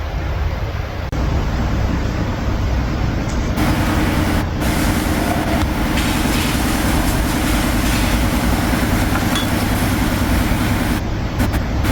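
A steady machine running with a low drone, joined about three and a half seconds in by a louder, rhythmic low throb with more hiss above it.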